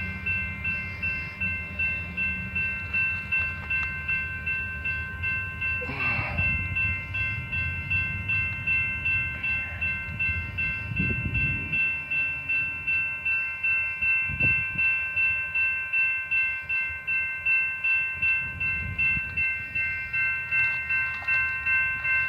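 Railroad grade-crossing bell ringing steadily, a little under twice a second, with a low rumble beneath it from the passing train and wind.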